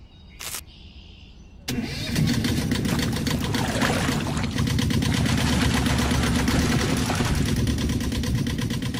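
An engine starts abruptly about two seconds in and runs steadily with a low, evenly pulsing chug. A brief click comes just before, during a quieter stretch.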